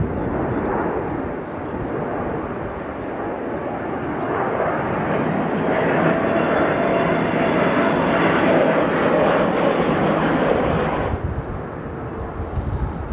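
Jet noise from a Boeing 787's twin turbofan engines during a flying display, growing louder with a faint whine before cutting off suddenly about eleven seconds in.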